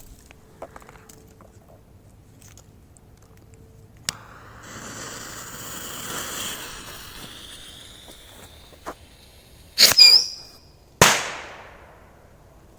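Whistling firework rockets. A shrill whistle runs for about three seconds, then two loud bangs follow about a second apart near the end.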